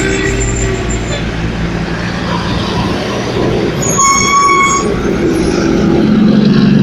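Heavy truck's diesel engine running, with a single air-horn blast lasting about a second, about four seconds in.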